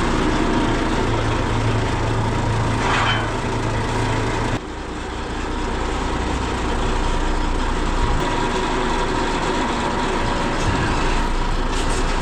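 Heavy vehicle engine running steadily, with a short hiss about three seconds in; a little over four seconds in the level drops suddenly and the engine note changes.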